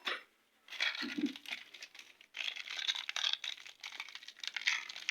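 Crinkling and rustling of packaging being handled, a dense run of small crackles that starts under a second in, breaks off briefly a little after two seconds and then carries on.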